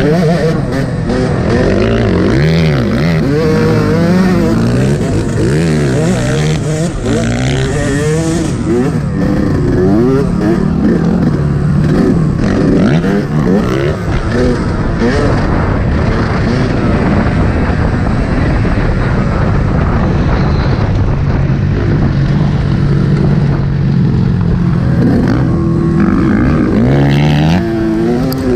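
Yamaha YZ125 two-stroke 125 cc motocross bike engine, revving hard and easing off again and again, its pitch climbing and dropping through the gears.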